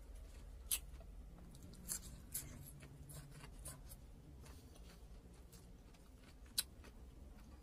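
Close-miked mouth sounds of a person chewing food, with a few sharp wet mouth clicks and smacks: the loudest about a second in, two more around two seconds, and one near the end.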